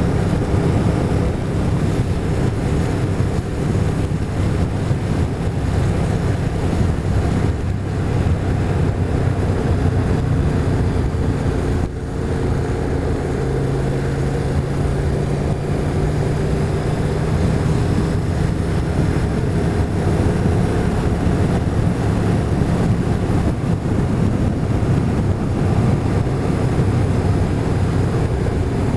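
Motorcycle engine running under way, mixed with steady wind rush on the microphone. The engine note dips briefly about twelve seconds in and comes back at a different pitch.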